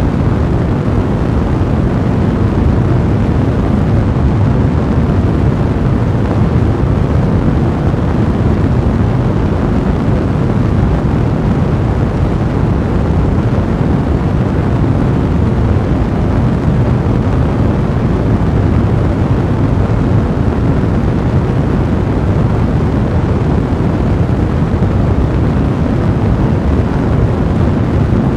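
A fire blazing: a steady, dense low rush of flame noise, with no single crackle standing out.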